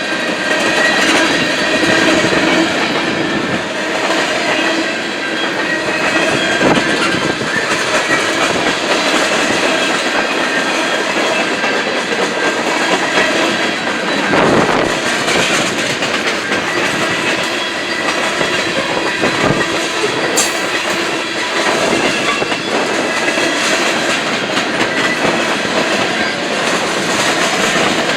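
Freight cars of a slow-moving 41-car freight train rolling past, steel wheels on the rails making a continuous noise with thin steady high tones running through it.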